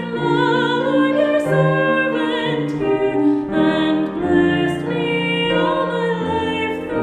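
Singing voices holding slow, sustained notes with vibrato over piano accompaniment, a sung hymn or anthem.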